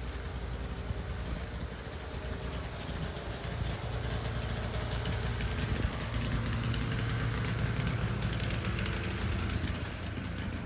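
A motor vehicle's engine running close by, a steady low hum that grows louder from a few seconds in and eases off near the end.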